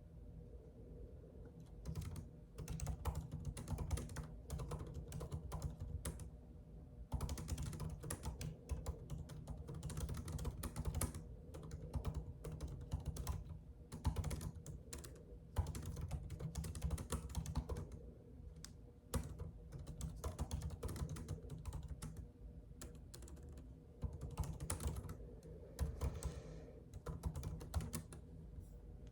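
Rapid typing on a computer keyboard, the keys clicking in long fast runs broken by a few short pauses.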